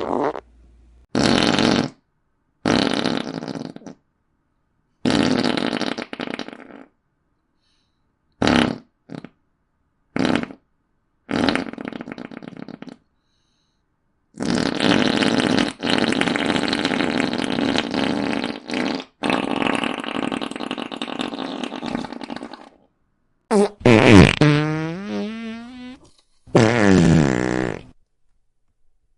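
A string of about ten fart sound effects, one after another with silent gaps between them. Most are short, a few are only blips, and one lasts about eight seconds. Near the end, one has a pitch that slides down.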